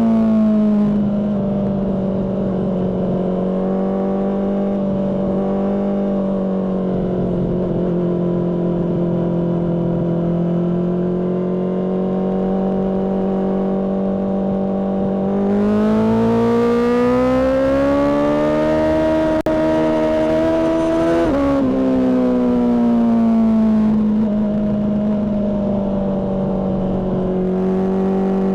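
Honda CBR600RR inline-four through a Mivv aftermarket exhaust. It holds steady revs, rises in pitch as it accelerates from about halfway, breaks briefly about two-thirds in, then eases back down to steady revs.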